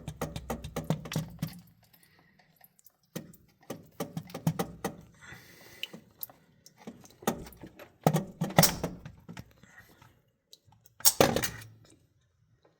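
Metal clinking and clanking of bolts, wrench and valve body as a 68RFE transmission valve body is worked loose from the case, opening with a quick run of clicks and then scattered clanks, the loudest near the end.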